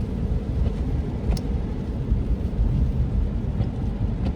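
Car driving on wet roads, heard from inside the cabin: a steady low rumble of road and engine noise, with two faint ticks.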